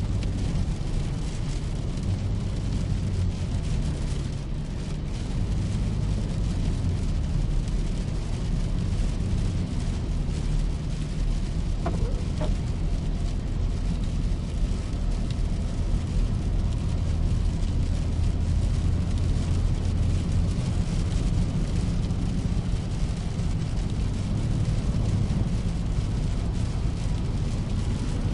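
Car driving in the rain: a steady low engine and road rumble under an even hiss of rain and tyre spray.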